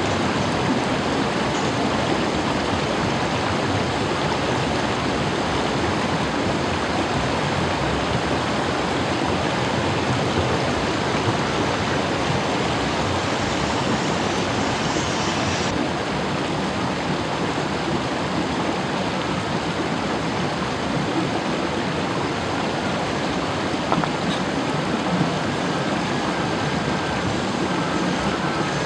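River water rushing over rocks: a steady, even wash of noise.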